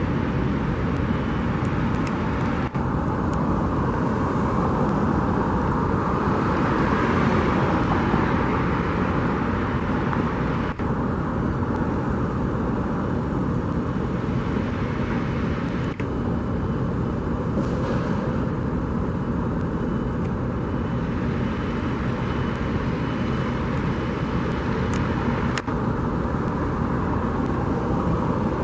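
Steady road and engine noise of a car driving, swelling a little for a few seconds before settling again.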